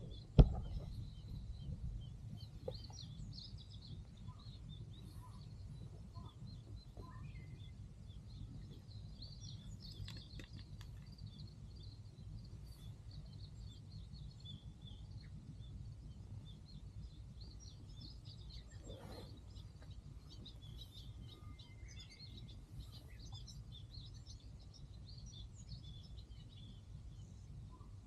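Small birds chirping on and off over a steady low rumble of outdoor noise, with a single thump just after the start.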